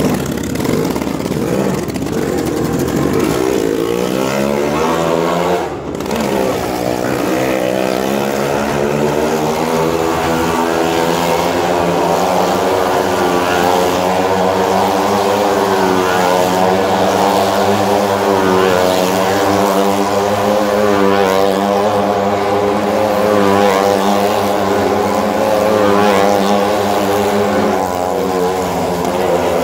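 Motorcycle engine revving up over the first few seconds, dipping briefly about six seconds in, then running steadily at high revs as it circles the vertical wall of death, its pitch rising and falling slightly.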